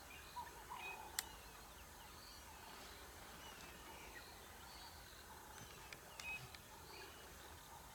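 Wild birds calling faintly with short, scattered chirps and brief gliding notes over a steady background hiss. There is a single sharp click about a second in.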